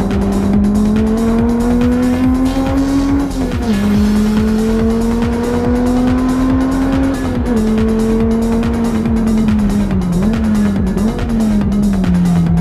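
Honda Integra Type R (DC5) four-cylinder engine pulling hard at high revs, heard from inside the cabin. It rises, drops sharply at an upshift a few seconds in, climbs again, then drops and falls away as the car slows. Two quick throttle blips on downshifts come just before it settles to a steady lower note near the end.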